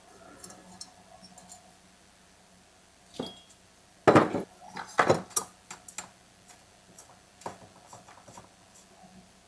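Small metal engine parts and hand tools clinking and knocking on a workbench as they are handled, in scattered sharp strikes, the loudest cluster about four to five seconds in.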